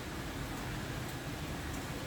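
Steady rain falling, an even hiss with a few faint high ticks.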